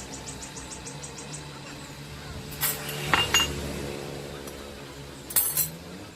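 Sharp metallic clinks in three groups, the second and third ringing briefly, over a steady low mechanical hum.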